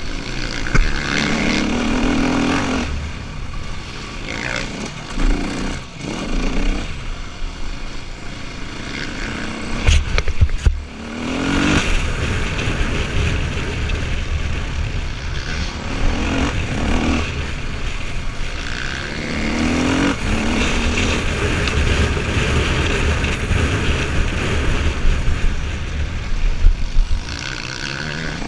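Enduro motorcycle engine revving hard under acceleration, its pitch climbing and dropping again and again as the rider shifts and rolls off between straights. A few sharp knocks come about ten seconds in.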